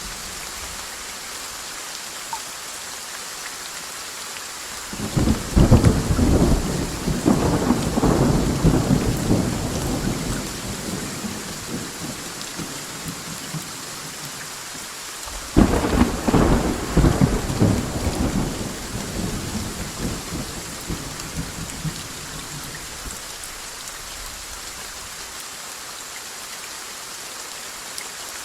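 Steady heavy rain with two rolls of thunder: the first breaks about five seconds in and rumbles for several seconds, the second cracks about fifteen seconds in and fades slowly.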